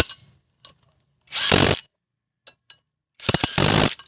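Power tool run in two short bursts of about half a second, roughly two seconds apart, driving bolts during brake reassembly, with a few light metallic clicks between.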